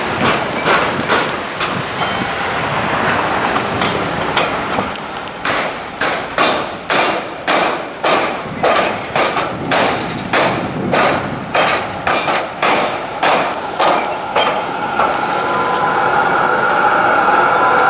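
Wheels of a passing suburban electric train knocking over the crossing rails where railway and tram tracks intersect: a long run of sharp clacks, about two or three a second. Near the end the clacks give way to a steady whine over a hiss.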